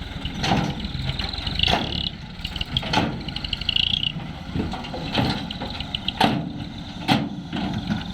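Truck engine running steadily, with repeated sharp knocks and clatters over it, and a rapid high-pitched pulsing chirp during the first half.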